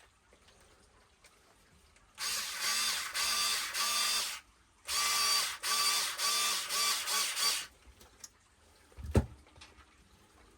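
Power driver running motor mount screws in, in two bursts of a few seconds each with a pulsing whir, the screws going in loose before the gear mesh is set. A single sharp knock near the end.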